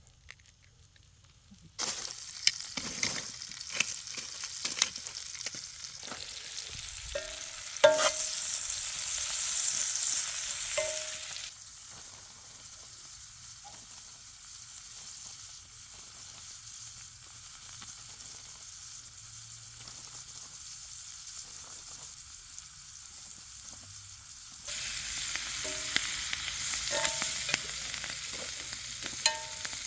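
Venison backstraps sizzling over a campfire, a steady hiss of cooking meat with frequent crackles and pops. It starts after a couple of seconds of quiet, drops to a softer sizzle a little before halfway and comes back loud near the end.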